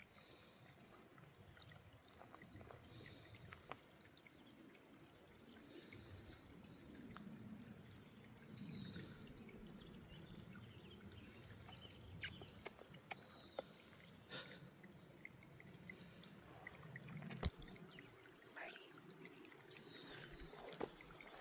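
Faint trickle of a small creek, with a few scattered light clicks and taps.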